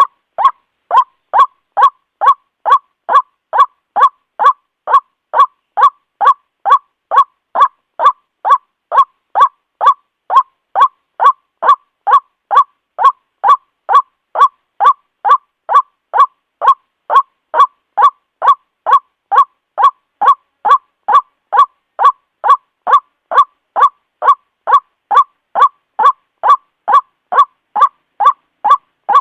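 White-breasted waterhen calling a loud, repeated 'kuwak' note at about two a second, kept at a machine-even pace as in a looped lure recording.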